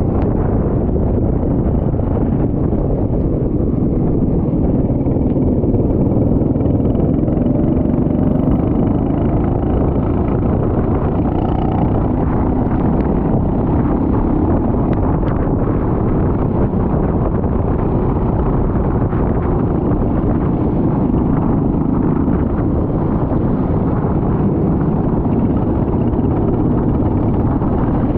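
Go-kart engine running under a steady, dense rush of noise, with a faint pitch that wavers up and down.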